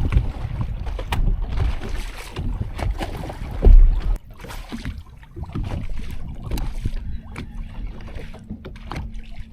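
Wind rumbling on the microphone aboard a fishing boat, with scattered knocks and one heavy thump a little over three and a half seconds in. Things go quieter after that, and a faint steady hum comes in from about seven seconds.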